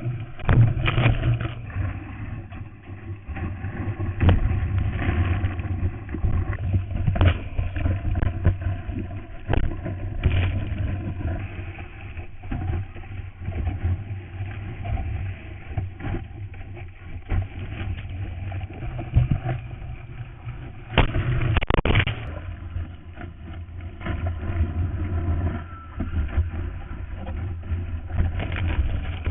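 Muffled rumble of wind and seawater heard through an early GoPro Hero's waterproof housing while surfing, with frequent knocks and splashes against the case and a louder rush about three quarters of the way through.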